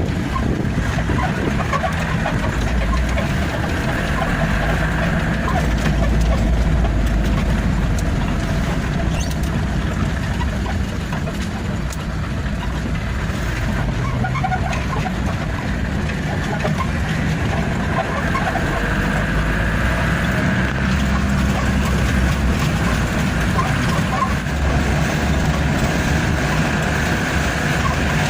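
Truck engine running steadily on the move, its low note swelling and easing a few times.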